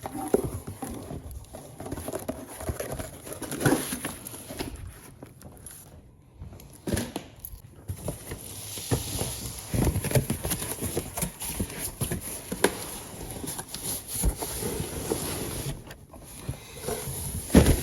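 Packaged phone screen protectors being handled and sorted: irregular rustling and light clicks of plastic and cardboard packs, with a sharper knock near the end.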